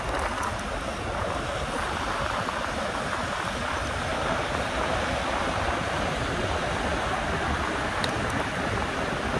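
Steady rushing wind and road noise from riding a fat-tyre e-bike, the air buffeting the microphone.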